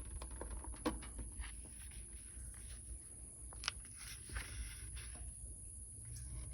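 Sketchbook pages being handled and turned: soft paper rustles with a few sharp ticks, the sharpest about a second in and again near the middle.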